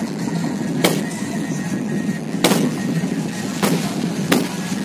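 Fireworks going off: four sharp bangs at uneven intervals, over a steady background din.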